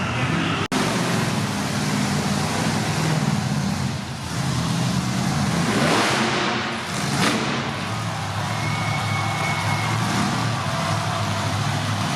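Monster truck engine running loud with revving, its pitch and loudness swelling and easing. The sound cuts out for an instant about a second in.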